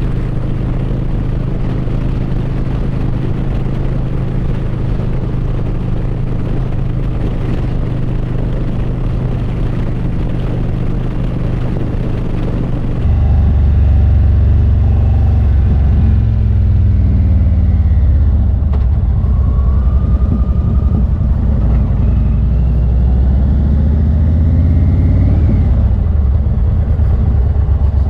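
Indian Roadmaster Dark Horse's Thunderstroke 116 V-twin running while riding, first at a steady cruise. About halfway through, the sound turns louder and deeper, and the engine pitch rises and falls a couple of times as it accelerates and eases off.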